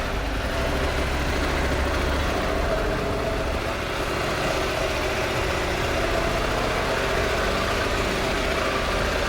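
KTM 790 Adventure's parallel-twin engine running steadily as the motorcycle is ridden, mixed with a steady rush of wind noise.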